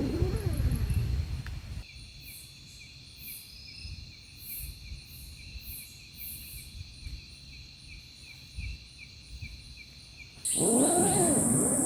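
Forest insects chirping: crickets with a fast, even pulse and repeated high chirps over a steady high ringing. About ten seconds in, a loud, steady high buzz cuts in suddenly.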